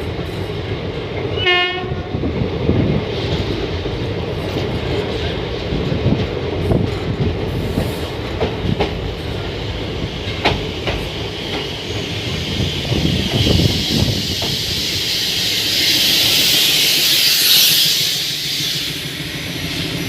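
Trains passing each other on the rails: a steady running rumble with the clatter of wheels over rail joints, and a short train horn blast about one and a half seconds in. A rushing hiss swells and fades near the end.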